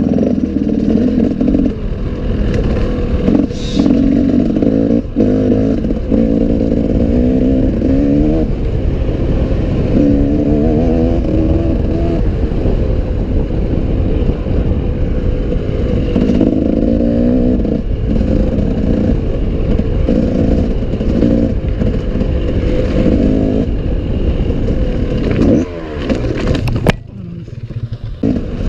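Enduro dirt bike engine heard from on board, revving up and down over and over as the rider works the throttle, with clattering from the bike over rough ground. The engine briefly drops away near the end before picking up again.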